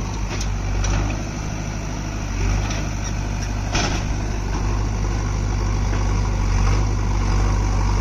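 Heavy diesel engine running steadily, with a short sharp noise about four seconds in.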